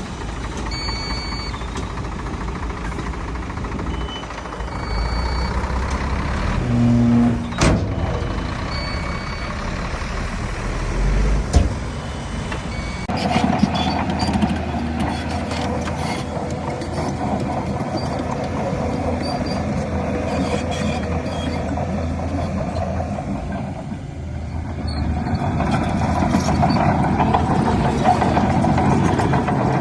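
Heavy diesel machinery working: dump truck and bulldozer engines running steadily, with a reversing alarm beeping. There is a sharp knock about eight seconds in, and the engine noise grows heavier from about halfway through.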